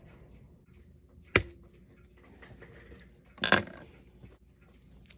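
Two sharp clicks of a small metal tool or part set down on a hard work surface during watch disassembly. The first has a brief ring after it; the second, about two seconds later, is louder and a little longer.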